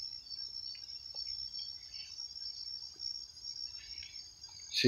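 Steady high-pitched chorus of insects trilling without a break, typical of late-summer crickets.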